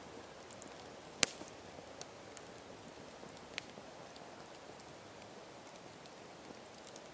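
Campfire burning with a steady low hiss and scattered small crackles, and one sharp, loud pop about a second in, with a smaller pop a couple of seconds later.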